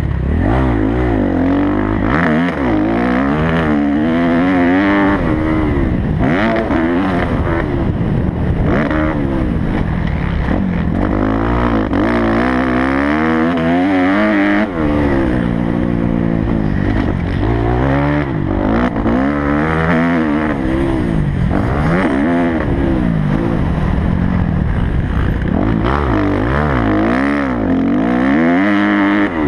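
Kawasaki motocross bike's engine, heard on board, revving up and dropping off over and over as it is ridden around the track, its pitch climbing and falling every couple of seconds with the throttle and gear changes.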